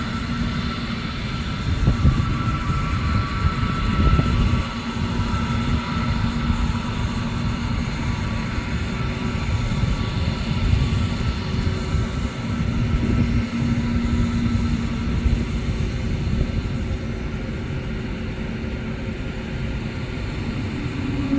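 Boeing 777-300 jet engines heard from the ground during takeoff: a steady rumble with a droning tone, swelling and easing a little over the stretch.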